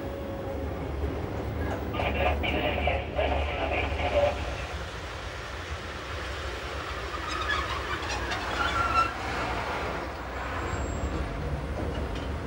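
Appenzell Railways metre-gauge electric train running, a steady low rumble with short high-pitched squeals from the wheels a couple of seconds in and again about two-thirds of the way through.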